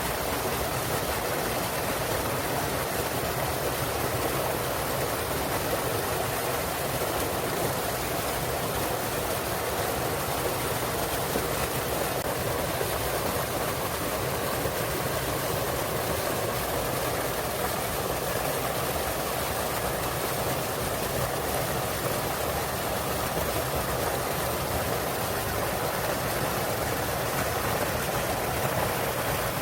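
Small waterfall in a mountain stream, water falling and rushing steadily.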